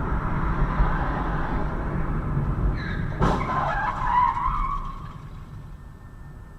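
Car on the road with loud driving noise, then tyres screeching for about two seconds with a sharp crash impact in the middle, about three seconds in; the noise dies down afterwards.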